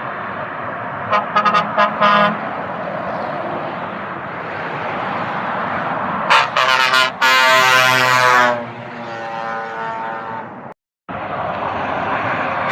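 Truck air horn sounding over road traffic noise: a few short toots about a second in, more short toots around six seconds, then a long blast that trails off fainter.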